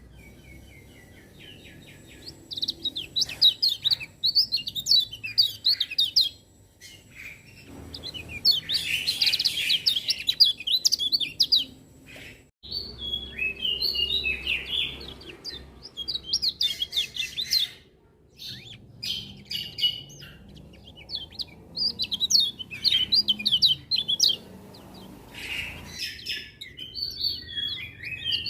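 Kecial kuning white-eye singing: bursts of fast, high chirping twitters a few seconds long, separated by short pauses.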